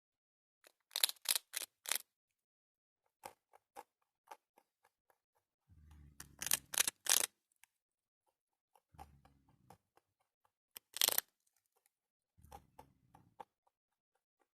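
Rabbit chewing dry bread: bouts of sharp, crisp crunches, three or four a second, with pauses between bouts and a low rumble under some of them.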